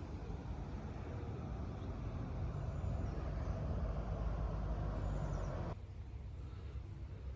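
Low rumble of a distant engine that builds over several seconds, then cuts off sharply about six seconds in, leaving quieter background.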